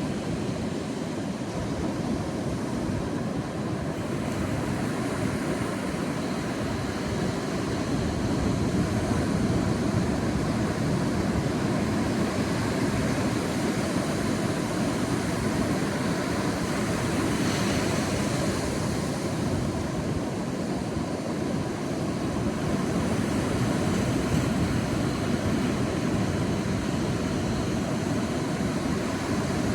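Sea waves washing onto a beach: a continuous rush of surf that swells and eases, with one brighter, hissier wave break a little past halfway.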